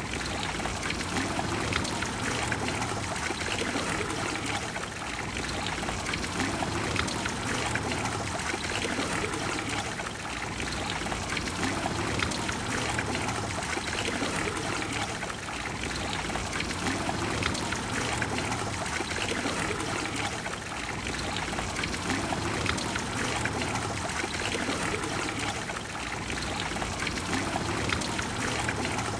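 Water of the Trevi Fountain flowing steadily.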